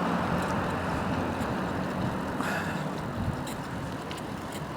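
Road traffic passing alongside a moving bicycle, a vehicle going by and slowly fading.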